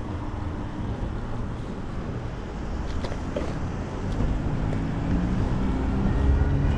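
Wind rushing over the microphone of a moving e-bike, with street noise, and a motor vehicle's engine growing louder from a little past the middle as it comes close.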